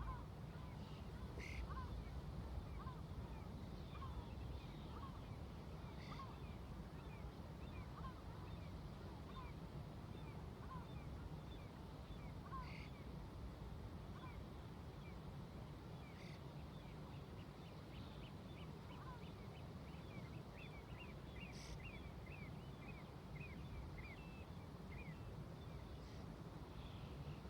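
A flock of seagulls calling in many short, overlapping calls, with a quicker run of higher calls about two-thirds of the way through. Underneath is a steady low rumble of ocean waves and distant traffic.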